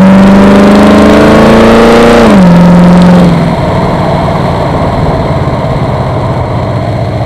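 Corvette V8 fed by a Holley 4150 600 cfm vacuum-secondary carburetor, held at raised revs that creep slowly upward. About two seconds in, the throttle is let go: the revs drop quickly, and about a second later the engine settles back to a quieter idle.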